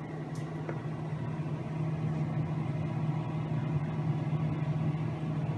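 Amana Temp Assure side-by-side refrigerator running: a steady low hum from its refrigeration machinery, growing a little louder about two seconds in.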